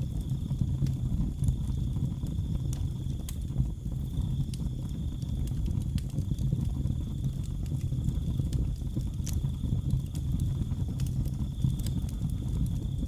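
Wood fire burning in a fireplace: a steady low rumble with sharp crackles and pops at irregular times. A steady high chirring of crickets runs underneath.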